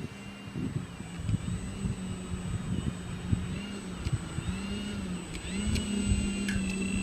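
Electric motor and propeller of an RC plane running, a steady whine whose pitch drifts up and down with the throttle, over gusty wind buffeting on the microphone.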